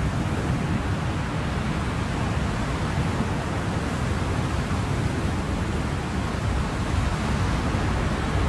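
Ocean surf: a steady, even rush of wave noise, heaviest in the low end, with no distinct breakers standing out.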